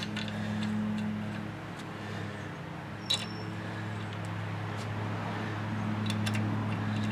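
A few sharp metallic clicks and clinks from hand tools working on a pickup truck's front brake caliper bolt, over a steady low hum.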